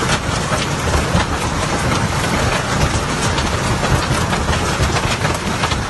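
Heavy hail pelting down, a dense, continuous clatter of many hard impacts over a strong low rumble.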